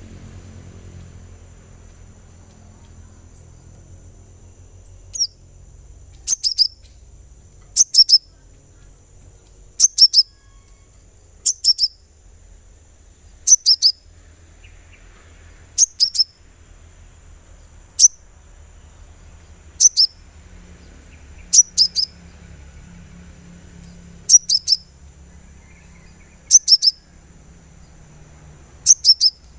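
Sunbird calling: short, high, sharp chirps that drop quickly in pitch, given singly or in quick pairs and triplets about every two seconds, over a steady high-pitched ringing drone.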